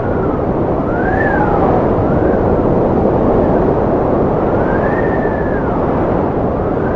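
Strong wind blowing steadily, with a howling whistle that rises and falls in pitch several times over the rush.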